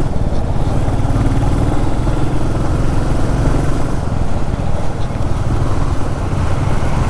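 Royal Enfield Classic 350's single-cylinder engine running steadily as the motorcycle rides along.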